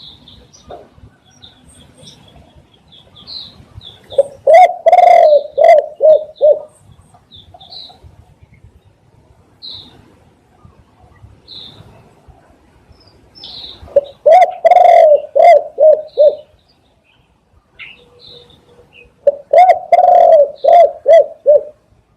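Spotted dove cooing: three phrases of several quick coos each, a few seconds apart. Faint, short high chirps of other small birds are heard between the phrases.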